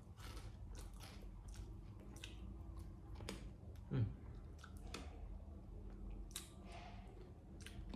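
Crisp potato chips being bitten and chewed: short, irregular crunches, with one louder low sound with falling pitch about four seconds in.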